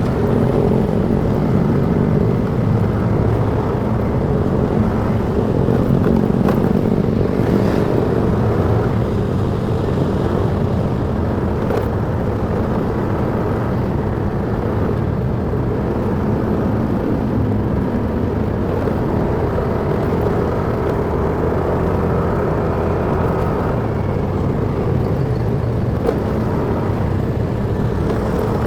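Motorcycle running at a steady pace while being ridden, its engine hum mixed with road and traffic noise.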